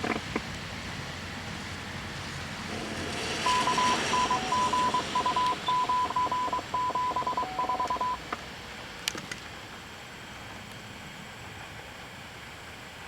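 Radio scanner sounding a rapid string of short electronic beeps at one high pitch, with a lower tone joining partway, for about five seconds before cutting off, over a steady hiss.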